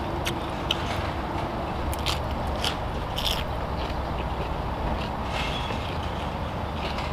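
Close-up chewing of a lettuce-wrapped blood cockle in seafood dipping sauce: crisp crunches from the lettuce and wet mouth sounds, loudest in the first three or four seconds, over steady background noise.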